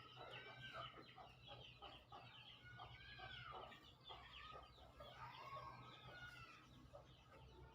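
Faint bird calls, many short overlapping calls throughout, over a low steady hum.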